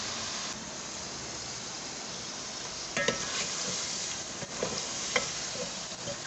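Chicken frying in spice masala in an aluminium pot, sizzling steadily as it is stirred with a wooden spoon; the spoon knocks against the pot a few times from about halfway through.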